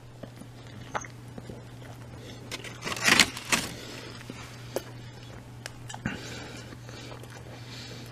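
Quiet chewing and handling of a foil-wrapped meatball sub: scattered small clicks, and a short, louder rustle about three seconds in, over a steady low hum.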